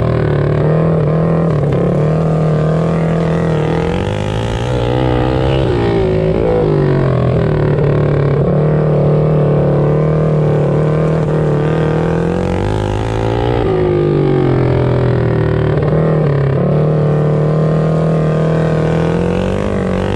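Small single-cylinder mini bike engines running hard in a race, their pitch climbing and falling back several times as the riders throttle up and ease off.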